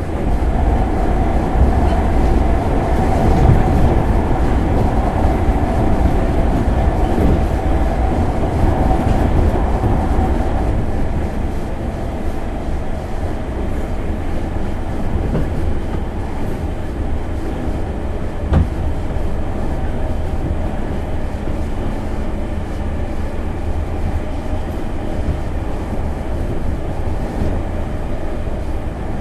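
Running sound of a JR 205 series 5000-subseries electric motor car, heard from inside the car: a steady rumble of wheels on rail. For roughly the first ten seconds a steady traction-motor whine sits over the rumble, then fades as the running gets a little quieter. A single sharp knock comes partway through.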